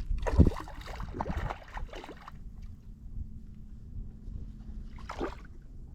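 Water splashing and knocking around a fishing kayak, with a quick run of bursts in the first two seconds, the loudest about half a second in, then a quieter stretch and one more short splash near the end.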